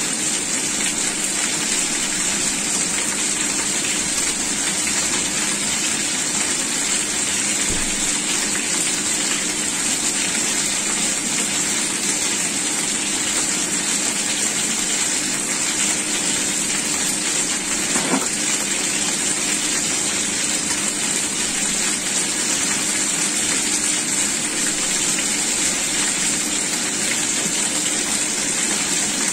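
Chicken wings and potato cubes sizzling in oil in a frying pan, a steady hiss with a low hum beneath it. A single click sounds about 18 seconds in.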